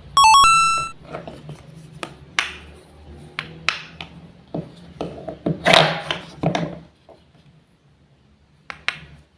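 Wooden toy fruits and vegetables being cut with a toy knife: a run of sharp wooden clacks and knocks with short rasping tears as pieces are pulled apart, thinning out to a couple of clicks near the end. A brief electronic beeping tune plays right at the start.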